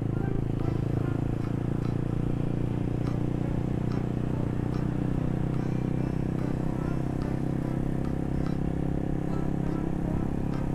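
Motorcycle running steadily while being ridden, a constant engine drone with no change in pace.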